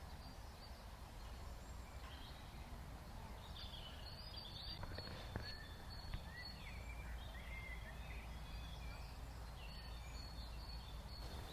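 Faint outdoor ambience: small birds chirping intermittently over a low steady rumble, with two brief clicks about five and six seconds in.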